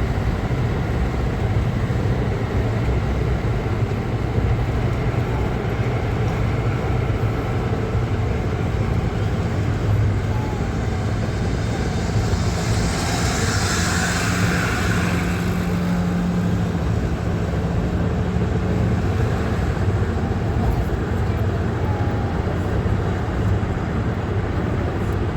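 Car traffic noise: a steady low rumble of road and engine noise, with a louder rushing sound for a few seconds about halfway through.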